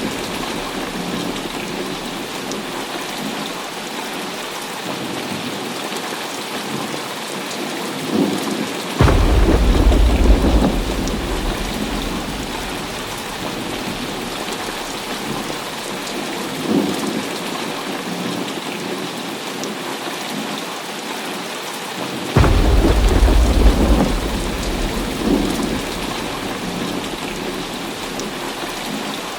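Heavy rain falling steadily, with two loud deep claps of thunder rumbling for a couple of seconds each, about nine seconds in and again about twenty-two seconds in, and a few fainter rumbles between.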